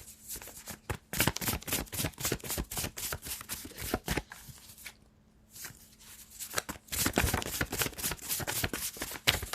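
A tarot deck being shuffled by hand: two bouts of rapid card flicks with a short pause about halfway.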